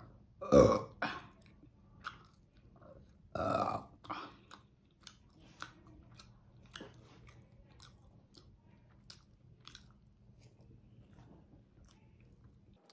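Close-up chewing of breaded fish stick, a long run of small wet mouth clicks. A loud burp comes about half a second in and another about three and a half seconds in.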